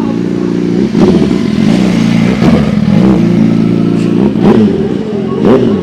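A vehicle engine revving loudly, its pitch rising and falling several times, getting louder about a second in.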